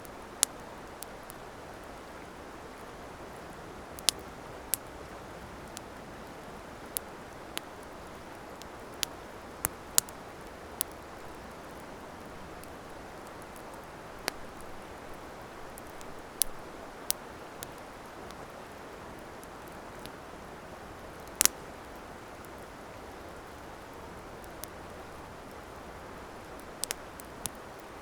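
Wood campfire burning: a steady soft hiss with irregular sharp crackles and pops, about fifteen of them, the loudest about two-thirds of the way through.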